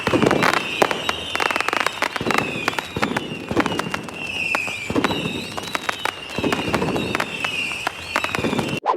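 A sound effect of dense crackling and popping with repeated high falling whistle tones over low rumbling bursts, cutting off abruptly near the end.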